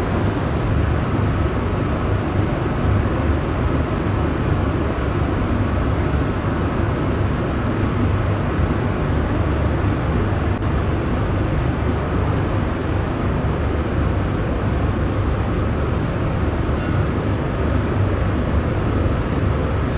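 Steady cabin noise inside a Boeing 787-8 airliner in flight: a constant low rumble of engine and airflow.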